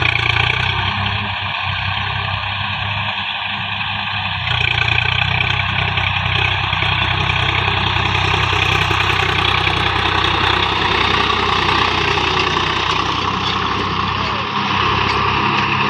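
Swaraj 735 XT tractor's diesel engine running steadily while pulling a cultivator, getting a little louder about four and a half seconds in and dipping briefly near the end.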